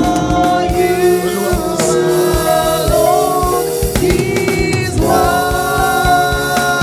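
Gospel worship music: voices singing long held notes together over a band with a steady drum beat.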